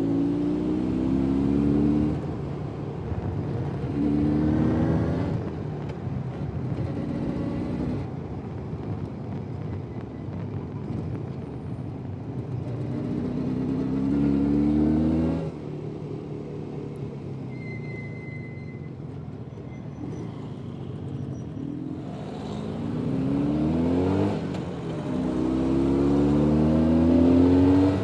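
Jawa 350 type 638 motorcycle's two-stroke twin engine under way, revving up with a rising pitch several times as it pulls away and accelerates, easing off in between. Through the middle it runs more quietly at low revs before picking up again near the end.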